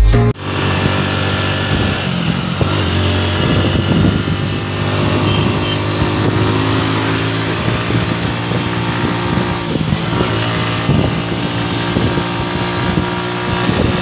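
Hero Honda Splendor's single-cylinder four-stroke engine running steadily while the motorcycle is ridden along the road, with wind noise on the microphone.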